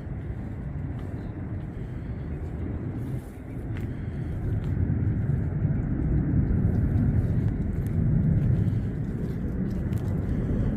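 Low, steady rumble of road traffic, growing louder about four seconds in.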